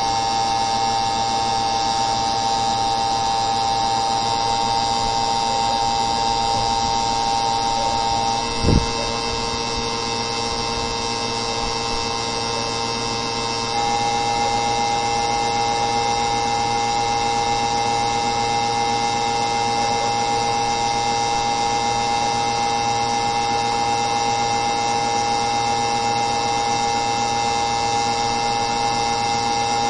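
A steady machine hum of several held tones, with a single knock nearly nine seconds in.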